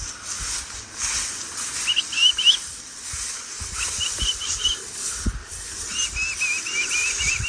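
A bird singing three short runs of quick, wavering chirps, over a steady rustling hiss and a few low thumps.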